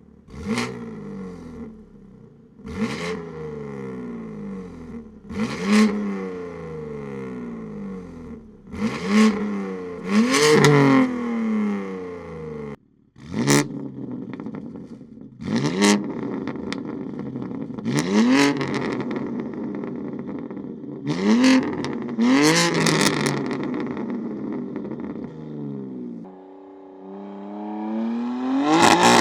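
BMW M2 (G87) twin-turbo inline-six with a Fabspeed valved exhaust and sport cat downpipes, blipped through a series of sharp free revs with the exhaust valves closed, then more revs with the valves open from about 13 s in. Near the end the engine pulls away under load, its pitch climbing steadily.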